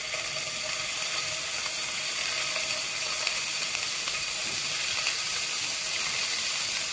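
Meatballs sizzling and crackling in hot olive oil in a frying pan as more are laid in; the sizzle grows slightly louder.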